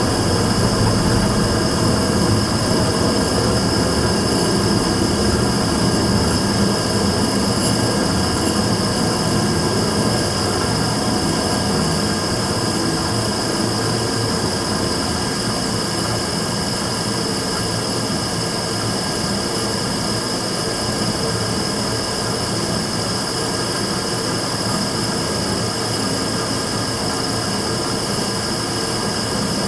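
Immersion-tube burner firing steadily: a continuous roar with a steady high-pitched whistle on top, recorded as the burner's abnormal noise.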